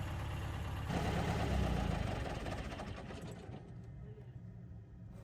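Tractor engine running, revving louder under load about a second in, then easing off and dying away.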